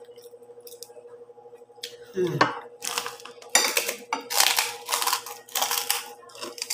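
Crunchy chicharon (deep-fried pork rind) being bitten and chewed close to the microphone. About two seconds in, a run of loud, dry crunches begins, around six in four seconds.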